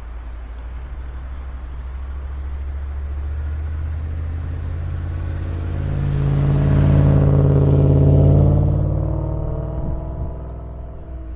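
Car engine and road noise as a steady low drone, with the engine's note swelling to a peak about seven or eight seconds in and then easing off.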